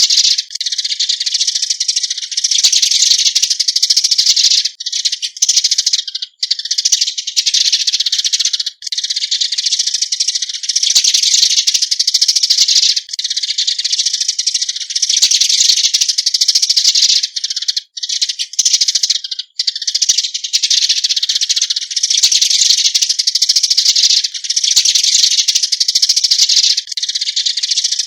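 Eurasian tree sparrows giving their flock calls: a dense, nearly unbroken stream of high-pitched chirps and chatter, with a few brief breaks.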